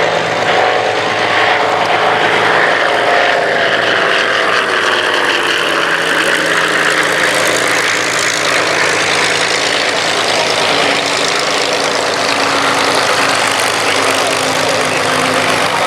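Avro Anson's twin Armstrong Siddeley Cheetah radial engines and propellers flying past, the engine note dropping in pitch over the first several seconds as the aircraft passes, then settling into a steady drone.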